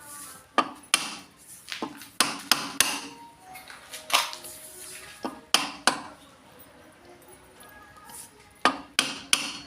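Irregular sharp metal knocks and clanks, about a dozen strikes, some leaving a short faint ring, like a hammer striking steel parts.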